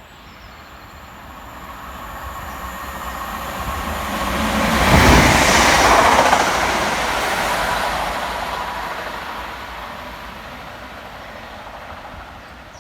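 Class 323 electric multiple unit passing at speed without stopping. The rushing wheel and rail noise builds over about five seconds, peaks, then fades away over the next six or so as the train recedes.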